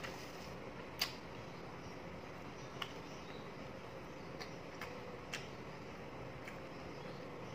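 Chewing and mouth sounds of someone eating: about half a dozen scattered soft clicks and smacks, the sharpest about a second in, over a steady faint background hum.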